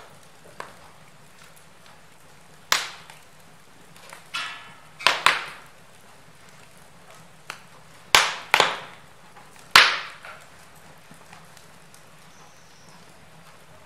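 Wood fire in a fireplace crackling: a faint steady hiss broken by about six sharp pops and snaps from the burning logs, with smaller ticks in between.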